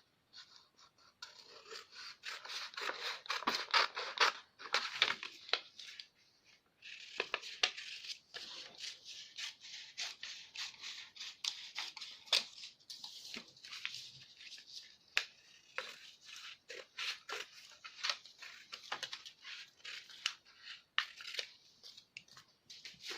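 Scissors cutting through a paper pattern: irregular runs of crisp snips with paper crinkling and rustling, broken by short pauses.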